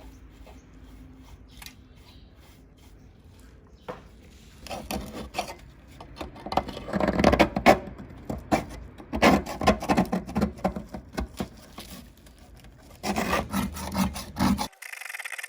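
Hand abrading of the rusty metal lamp: quiet scratching at first, then from about five seconds in, quick rasping strokes in runs. After a short pause near twelve seconds the strokes come again, then cut off suddenly into a steady hiss.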